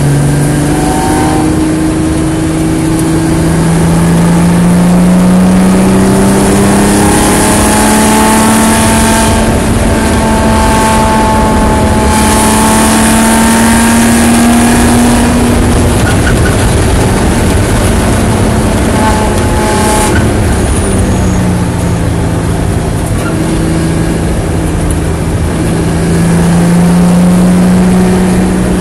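Nissan 300ZX's V6 engine heard from inside the stripped, caged cockpit under hard acceleration on track, its pitch climbing steadily down a long straight with loud wind and road noise. About halfway through it drops back as the driver lifts off, then climbs again near the end.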